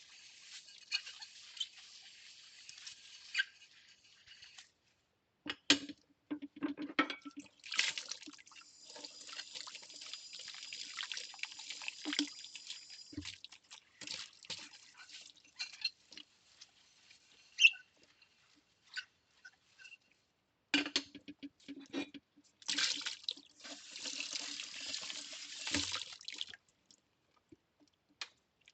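Plates being washed by hand at a kitchen sink: water from the tap runs in two longer spells, with clinks and knocks of ceramic and short scrubbing sounds in between.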